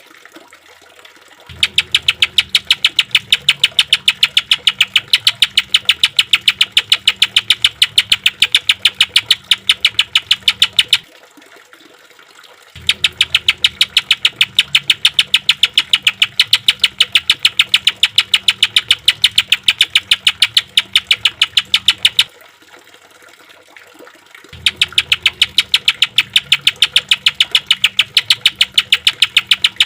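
Cucak ijo (greater green leafbird) delivering its 'tembakan' rapid-fire song: long bursts of fast, evenly repeated sharp high notes, several a second. There are three such bursts, separated by short pauses, one a little after the start and another about a minute fraction in, each running nearly ten seconds.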